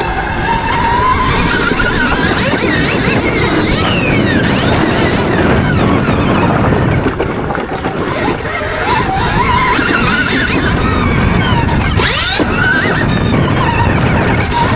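Stark Varg electric motocross bike riding, its motor whine rising and falling in pitch with the throttle over a steady rush of noise.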